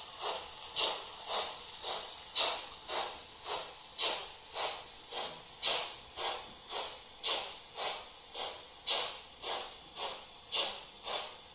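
Model steam locomotive sound from an ESU LokSound 5 decoder for a three-cylinder BR 45, played through the model's loudspeaker: steady exhaust chuffs at a little under two a second, every third beat louder.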